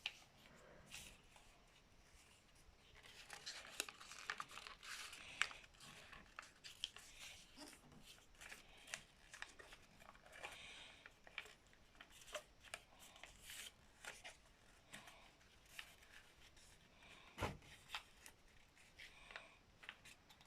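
A paper sheet being folded and creased by hand into a paper airplane wing: faint rustling and crinkling with small sharp crackles, busiest a few seconds in. One duller thump comes about three-quarters of the way through.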